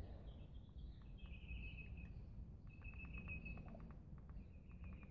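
Faint bird trills: three short runs of rapid, high chirps, about a second in, near the middle and near the end, over a low background rumble.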